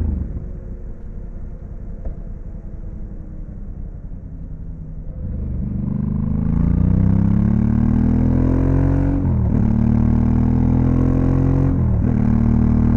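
Honda Africa Twin CRF1100L's parallel-twin engine, throttle closed and coasting with falling revs for about five seconds. It then accelerates, rising in pitch and shifting up twice, each shift a sudden drop in revs before it pulls again.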